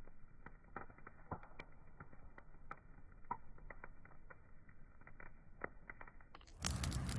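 Wood fire crackling, with irregular sharp pops and snaps over a low steady hiss. About six seconds in, a sudden loud rush of noise, much brighter and louder than the crackle, cuts in and lasts to the end.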